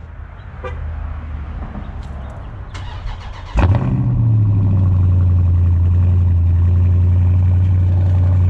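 2019 Dodge Charger Scat Pack's 392 HEMI V8 starting up about three and a half seconds in: it catches loudly with a brief flare, then settles into a steady, deep idle. A few light clicks come before the start.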